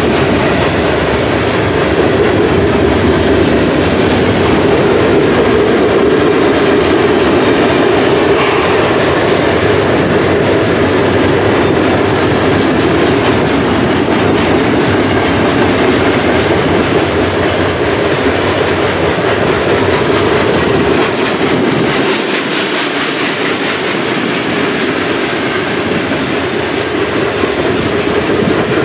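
Freight train cars (boxcars, a tank car and gondolas) rolling past close by, their steel wheels running on the rails in a loud, steady rumble.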